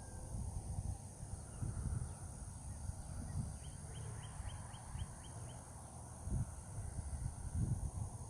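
Outdoor ambience of irregular low rumbling thuds under a steady high insect drone, with a bird giving a quick run of about eight short chirps in the middle.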